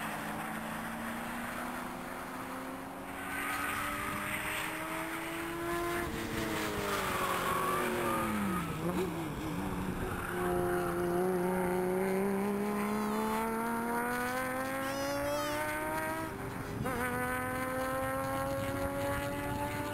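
Mini Cooper S (R56) 1.6-litre turbocharged four-cylinder engine at racing speed. Its note climbs under acceleration, falls away as the car slows about seven seconds in, climbs again, and drops briefly with an upshift about three-quarters of the way through before rising once more.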